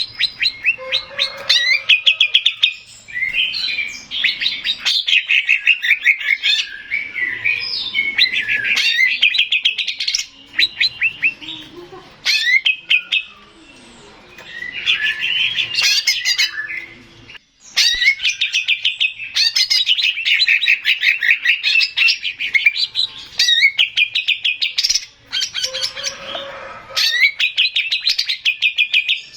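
Male cucak ijo (green leafbird) singing a loud, varied song of fast chattering trills and whistled phrases, broken by a couple of short pauses.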